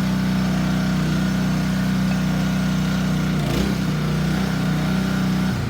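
Small petrol engine of a hydraulic log splitter running steadily. Its pitch dips and wavers briefly about three and a half seconds in, and it falls away at the very end.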